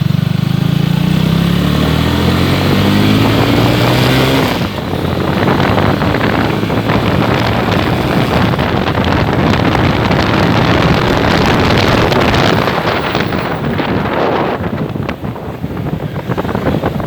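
Honda CBR150 single-cylinder engine pulling with rising pitch for about the first four seconds, then a steady rush of wind on the microphone at riding speed, with the engine underneath.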